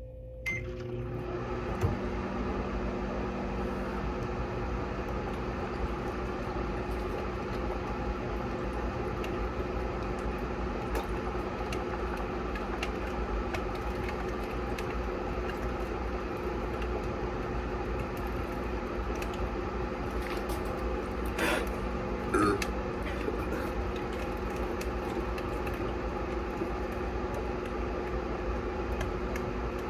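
Microwave oven switching on about half a second in, then running with a steady hum. A brief louder noise comes about two-thirds of the way through.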